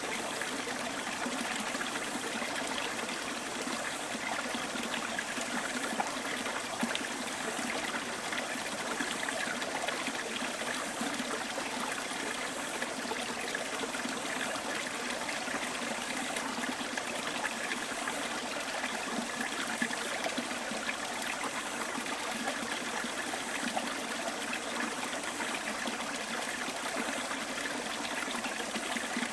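Small stream flowing steadily over stones, a continuous trickling water sound with no breaks.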